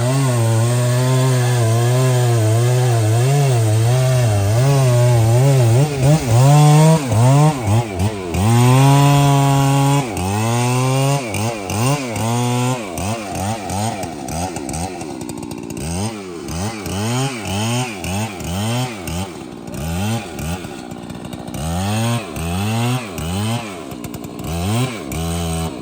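Large professional chainsaw cutting trembesi wood. For about the first twelve seconds the engine is held under load, its pitch wavering. After that it is revved up and down in quick repeated bursts, about one a second.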